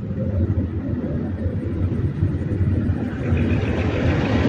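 A steady low rumble like a passing motor vehicle, growing slightly louder toward the end.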